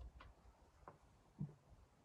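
Near silence with a few faint sharp clicks and one soft low thump about one and a half seconds in.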